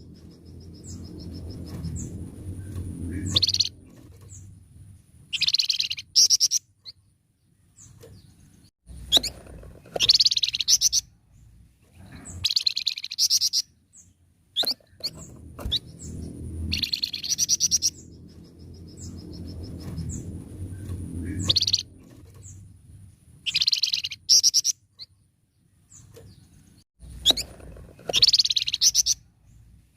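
A flamboyan songbird singing in loud bursts of rapid, chattering song, each a second or two long and repeated every few seconds. Between the phrases there is a low rumble.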